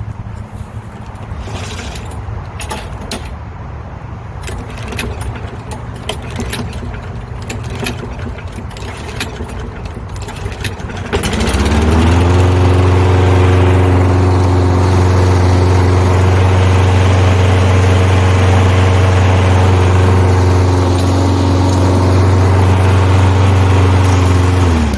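Lawn mower engine starts about eleven seconds in, rising in pitch. It runs steadily for about thirteen seconds, then is shut off near the end, its pitch falling as it stops. Before it starts there are clicks and rattles over a steady low engine hum.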